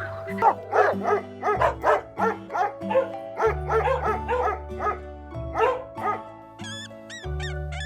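A dog barking in a rapid run, about three barks a second, over background music. Near the end the barking stops and high squeaks that rise and fall begin.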